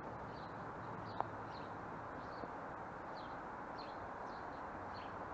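A small bird chirping repeatedly, short high chirps about twice a second, over a steady background hiss, with one sharp click about a second in.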